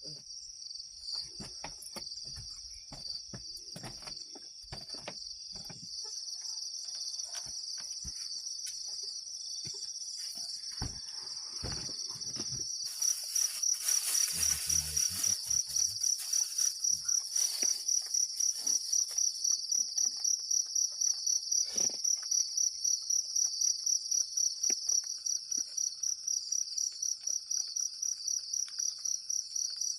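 Insects chirring in a steady high-pitched drone that, about halfway through, turns into a loud, even pulsing about three times a second. Light scattered clicks and knocks sound in the first half.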